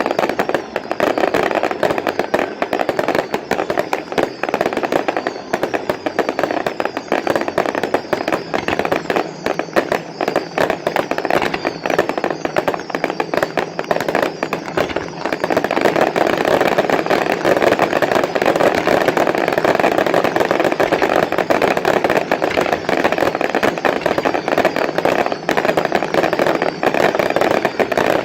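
Consumer firework cakes firing a continuous rapid barrage of pops and crackles, growing denser and louder about halfway through.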